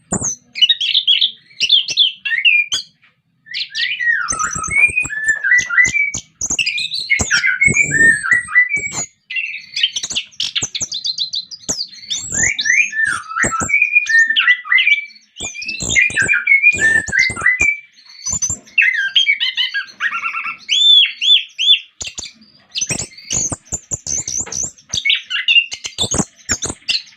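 Orange-headed thrush singing a long, lively song of varied whistled phrases that change quickly, with only brief pauses between them.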